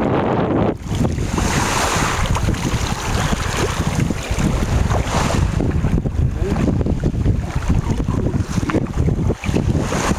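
Wind buffeting the microphone over the rush and splash of sea waves, in gusts, with hissing surges of water now and then.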